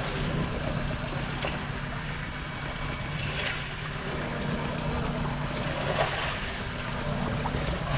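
Electric fishing reel winding the line up, a steady hum that stops near the end, over wind and water washing against the boat.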